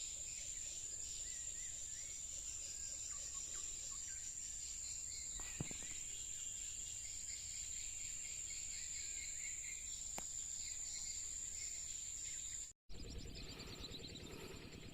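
Steady high-pitched insect drone with faint whistled calls of whistling ducks and a couple of faint clicks. About thirteen seconds in, the sound drops out for an instant and resumes as a different, pulsing background.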